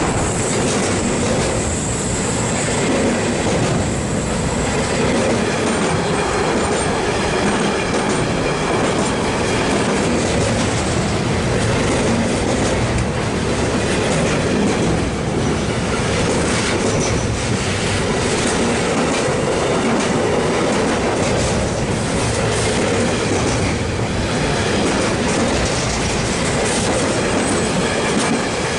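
A train rolling past at close range: loud, steady wheel-on-rail noise with many rapid clicks from the wheels running over the track.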